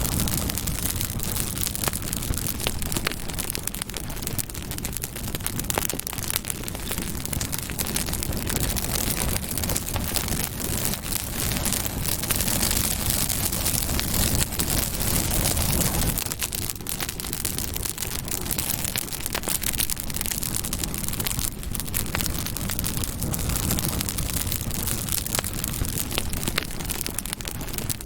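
Campfire burning, a steady rush of flames with many small crackles and pops from the burning wood.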